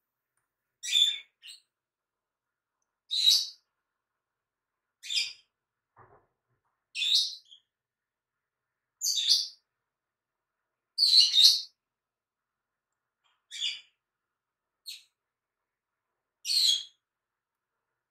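A bird chirping: short, high calls repeated roughly every two seconds.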